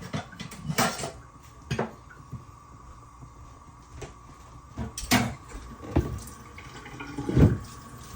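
Kitchen clatter of utensils against a cooking pot: a handful of separate sharp knocks and clinks, the loudest near the end.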